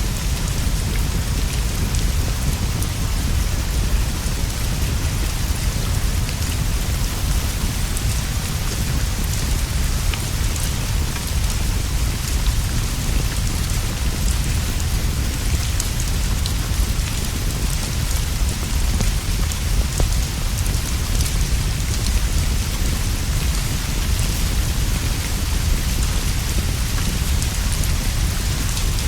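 Steady rainfall, an even hiss with many scattered light ticks of drops, over a constant low rumble.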